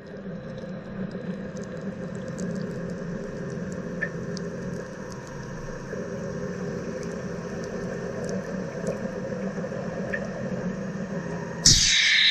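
Wire EDM machine running with a steady low hum and a few faint ticks. Near the end a thump and a much louder steady hiss start abruptly.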